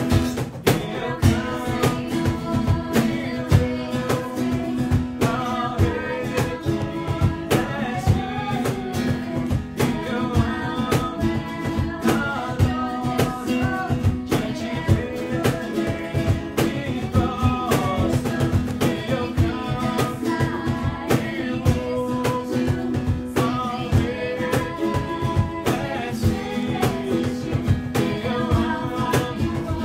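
Live song with a strummed acoustic guitar and singing voices over a steady beat.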